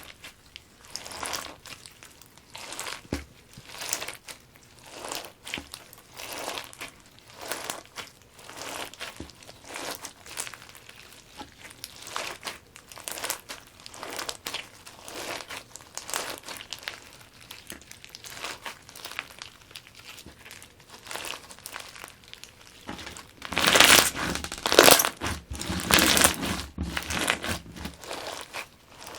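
Crunchy slime packed with fishbowl beads being squeezed and pressed by hand, giving crinkling, crackling crunches in a repeated rhythm of about one squeeze a second. It grows clearly louder for a few seconds near the end.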